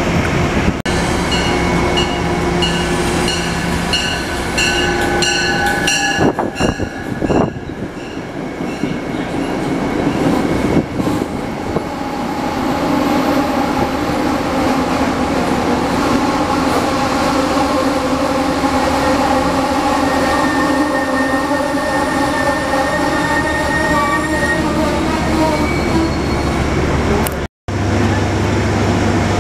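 Passenger train rolling past close alongside the platform. A bell rings about twice a second for the first several seconds, then the wheels squeal in several long, steady high tones over the rumble of the passing cars. The sound cuts out for a moment near the end.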